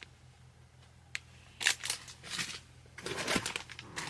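Packaging rustling and crinkling as items are handled and pulled out of a box. A single click comes about a second in, and the rustle grows louder and denser near the end.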